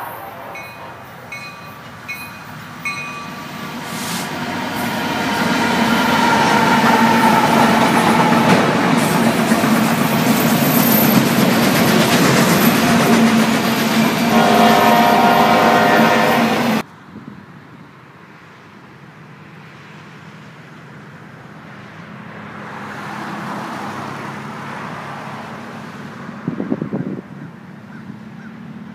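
Freight train led by a Union Pacific SD70ACe diesel locomotive passing close, engine and wheels loud for several seconds, with its air horn sounding near the end of the pass. The sound cuts off suddenly to a much quieter, distant train rumble with some wind noise.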